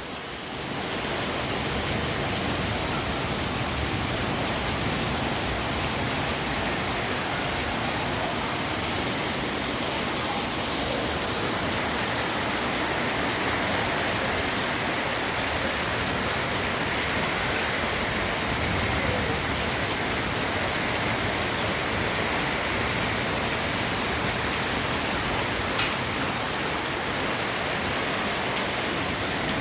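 Heavy rain pouring down, with rainwater rushing along the street: a steady, unbroken hiss of rain and running water. One brief sharp click near the end.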